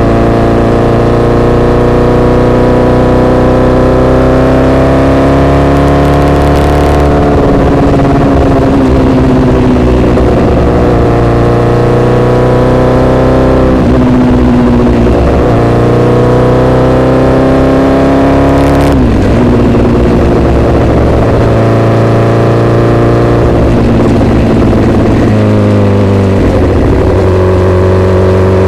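Honda CBR1000RR inline-four sportbike engine with an SC-Project exhaust, ridden under way and loud. The engine note climbs slowly and then breaks off sharply several times, about every five or six seconds.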